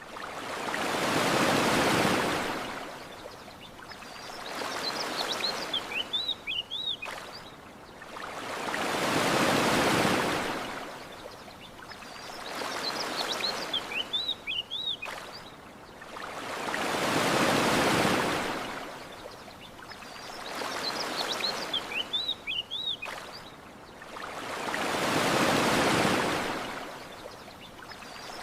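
Gentle ocean waves washing onto a beach, each swell rising and falling away about every four seconds, with brief high bird chirps in the lulls between them.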